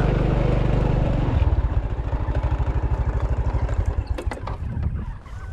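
Small motorcycle engine running, then easing off to a slower idle about one and a half seconds in, with a few light clicks near the end.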